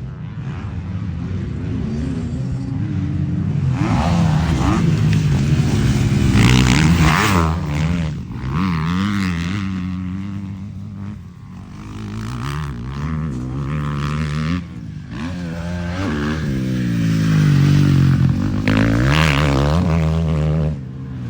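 Motocross bike engine revving, its pitch rising and falling many times as the throttle is opened and closed.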